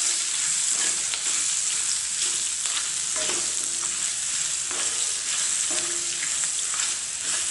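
Green chillies sizzling in hot oil in a non-stick kadai, with a steady hiss, while a wooden spatula stirs them, adding light scrapes and taps against the pan.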